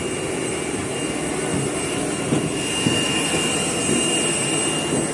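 Steady engine noise of a Boeing jet heard from inside the cabin: a dense roar with a thin high-pitched whine over it, and a couple of faint knocks in the middle.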